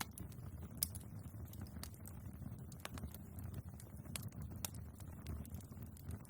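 Wood fire burning in a fireplace: a low steady rumble of the flames with irregular crackles and pops from the logs, one sharp pop loudest about a second in.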